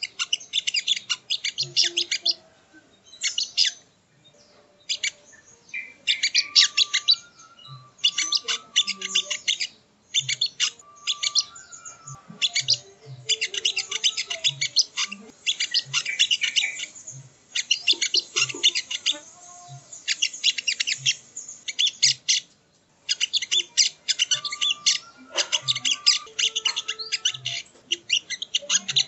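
Sogok ontong (songon) bird singing in repeated bursts of fast, high, chattering trills, each a second or two long with short pauses between them; a lure song recording used to excite caged birds of the same kind.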